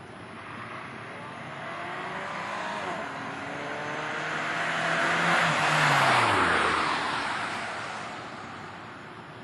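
Chrysler PT Cruiser 2.4 turbo four-cylinder with a Silverline exhaust accelerating past. The engine and exhaust note grows louder to a peak about six seconds in, drops in pitch as the car goes by, and fades away.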